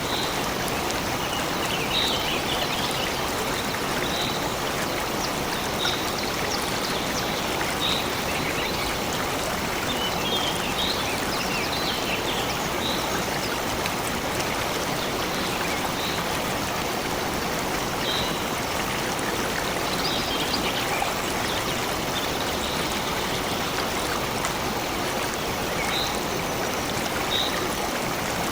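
Steady rush of a flowing stream, with a bird repeating a short high call about every two seconds and a few brief twittering flurries over it.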